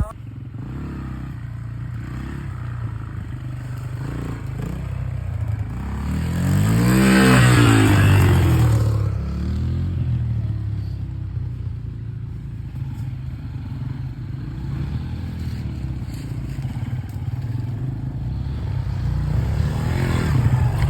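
Small dirt bike engine running along the trail, loudest as it passes close about seven seconds in, its pitch climbing and then dropping as it goes by, then carrying on more quietly.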